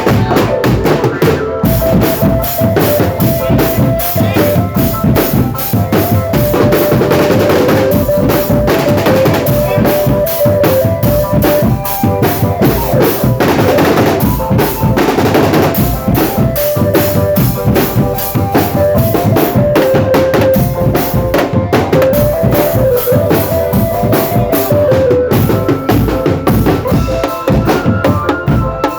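Indonesian marching drum band playing: fast, dense snare and bass-drum beats with a stepping melody line carried over the drums.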